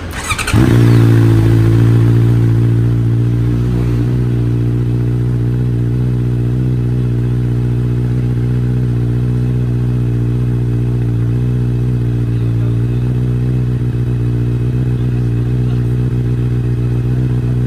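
Honda CB650R/CBR650R inline-four motorcycle engine started and catching within about half a second, then idling steadily through an IXIL aftermarket full exhaust system. It is a touch louder for the first couple of seconds before settling into an even idle.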